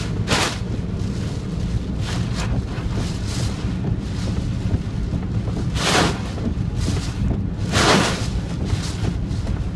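Strong typhoon wind buffeting the phone's microphone, a constant heavy low rumble with short rushing surges, the loudest about six and eight seconds in.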